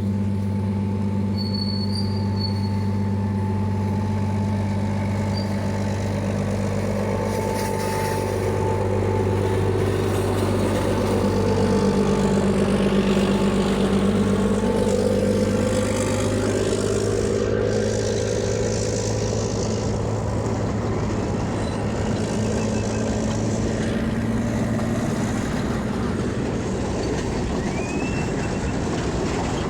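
Long train running past: a diesel locomotive's steady engine drone with the rumble of the wagons, growing louder around the middle. A brief high squeal near the end, typical of wheels on the curve.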